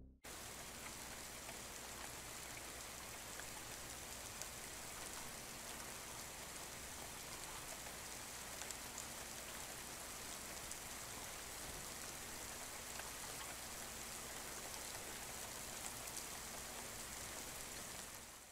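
Steady, even hiss like rain, with faint scattered ticks, starting abruptly and fading out at the end.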